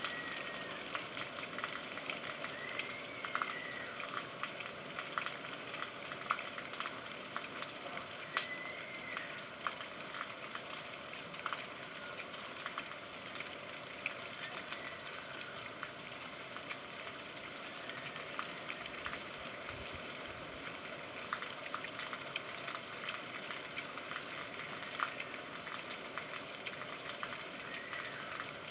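Steady rain falling, a dense hiss of many small pattering drops. A few faint short rising-and-falling tones come through around 2 kHz about three and eight seconds in and near the end.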